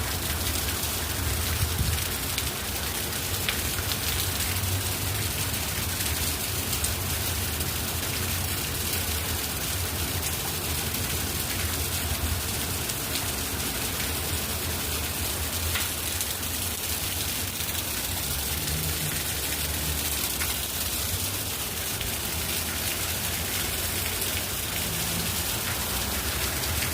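Heavy rain falling steadily, a dense even hiss of drops striking surfaces, with a low rumble underneath.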